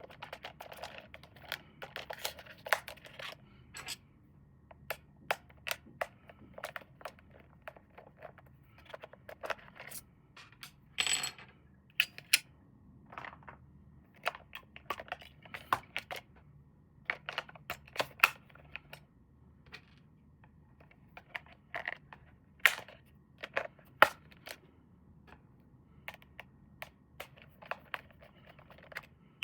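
Hands unpacking and handling toy packaging: scattered sharp plastic clicks and taps with short bursts of rustling and crinkling, irregular throughout.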